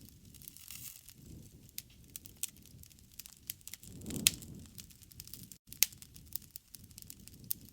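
Wood campfire crackling, with frequent sharp pops over a low rush of flames; the loudest pop comes about four seconds in.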